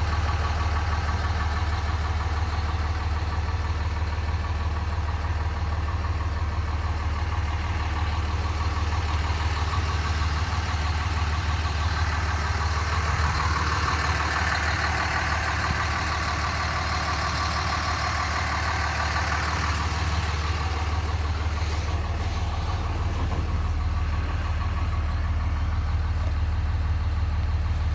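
Cummins 5.9-litre 24-valve inline-six turbo diesel in a 2004 Dodge Ram 2500, idling steadily.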